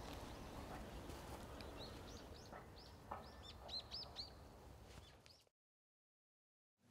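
Faint outdoor ambience with a small bird chirping, a run of short high chirps from about two seconds in. It fades out to silence about five and a half seconds in.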